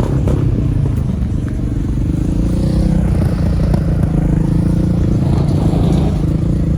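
A vehicle engine running steadily at an even, low pitch close by.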